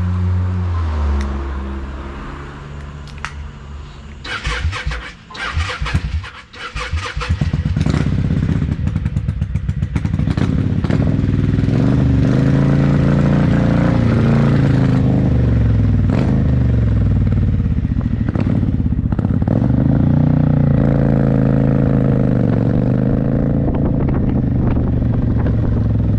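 Motorcycle engine running: a steady idle at first, then a few seconds of clattering about five seconds in. After that the engine becomes loud and the motorcycle rides off, its pitch rising and dropping again and again as it accelerates and shifts gears.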